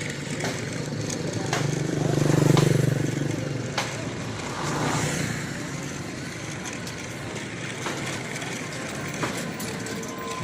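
Toy RC tractor's small electric motor and gears running, with scattered clicks; it swells loudest about two to three seconds in, then settles.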